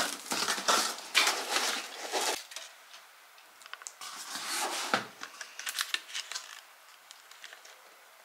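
Objects being handled: quick clicks, knocks and rustling, busiest in the first couple of seconds, with a sharper knock about five seconds in and faint ticks after.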